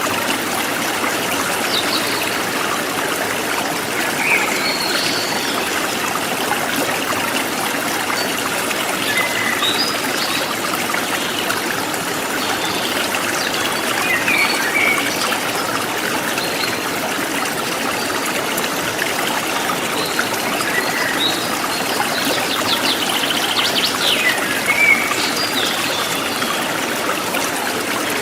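Forest stream trickling and flowing steadily, with short bird chirps and calls dotted over it every few seconds.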